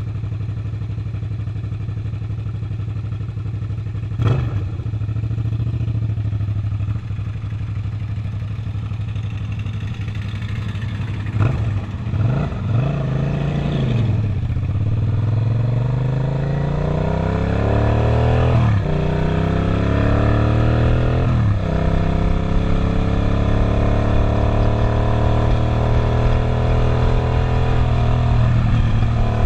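Suzuki SV650 V-twin motorcycle engine running steadily at low revs with a sharp click about four seconds in, then pulling away: the engine note climbs, drops back at two or three upshifts, and settles into a steady, slowly rising drone near the end.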